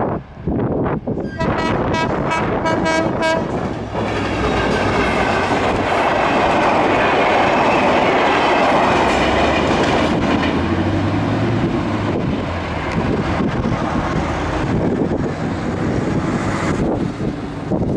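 Passenger train hauled by a GT22 diesel locomotive sounds its horn in a quick series of short blasts, then passes close by with a steady rush of wheels and coaches on the rails.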